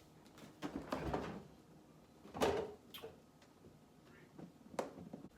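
Refrigerator door and its contents being handled: a few scattered knocks and clatters, the loudest about two and a half seconds in.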